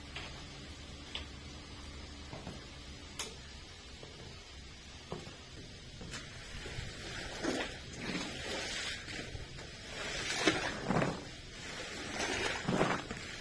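A hand cleaning tool worked in strokes across a carpet. A few scattered small clicks and taps come first; from about halfway through, the strokes run at roughly one a second and grow louder.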